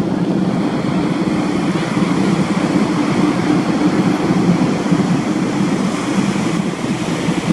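Steady, loud aircraft engine drone with a constant low hum and wind-like rushing noise over it.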